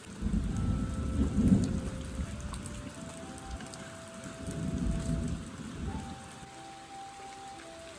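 Thunder rumbling over steady rain. A long rolling peal comes right at the start and is loudest about a second and a half in. A second, weaker rumble comes about four and a half seconds in.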